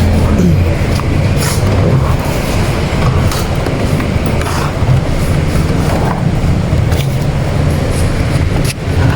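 A combustion engine running steadily at idle, a loud low drone, with a few light clicks of tool handling over it.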